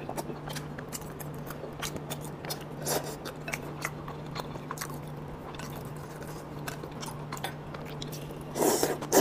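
Close-miked chewing: soft wet mouth clicks and smacks as a person chews soft food, over a steady low hum. A louder, longer mouth sound comes just before the end.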